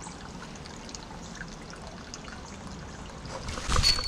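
Steady rain with water pattering and trickling. Near the end it turns into a louder burst of noise and sharp knocks, with a brief high tone.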